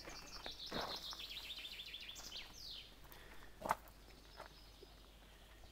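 A small songbird sings one phrase: a fast run of repeated high notes ending in a quick downward flourish. Two short knocks come through, one about a second in and a louder one near four seconds.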